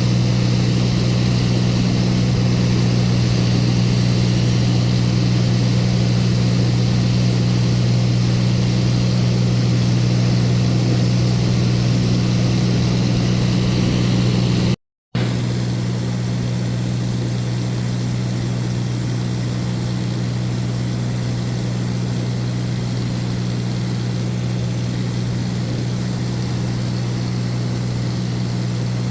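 Light aircraft's propeller engine running steadily in flight as heard inside the cabin, a deep constant hum with a hiss above it. About halfway through the sound cuts out for a split second and comes back slightly quieter.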